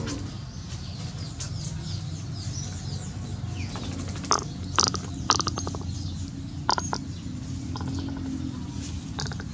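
A few short bird chirps, bunched in the middle, over a steady low background noise.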